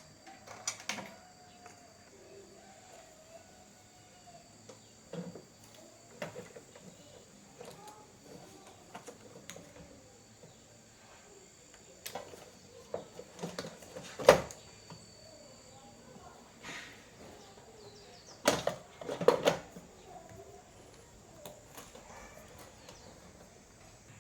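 Scattered clicks and knocks of small parts and tools being handled during a repair, the loudest about halfway through and a cluster of several near the end, over a faint steady high whine.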